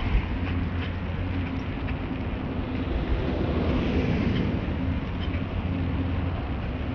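A car driving, with a steady drone of engine and road noise heard from inside the cabin.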